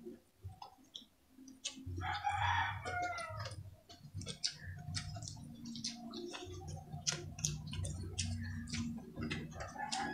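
Close-miked chewing, with wet mouth clicks and lip smacks from people eating fish and rice by hand. About two seconds in, a rooster crows in the background.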